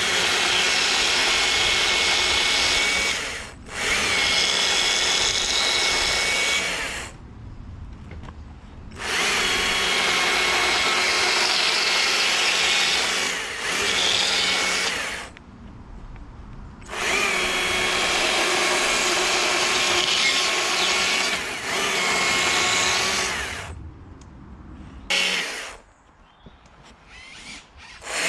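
Two-stroke chainsaw run at full throttle, cutting into a log in four long bursts of several seconds each and falling away between them. A short blip of throttle comes near the end before it picks up again.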